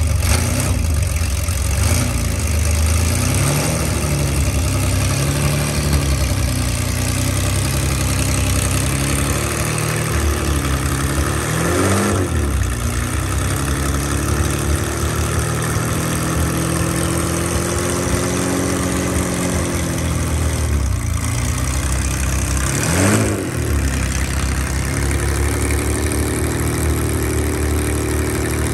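Ferrari 365 GT4 BB's flat-twelve engine idling, running just after being refitted from an engine-out service. It is revved briefly a few times, the revs rising and falling, most clearly about 12 and 23 seconds in.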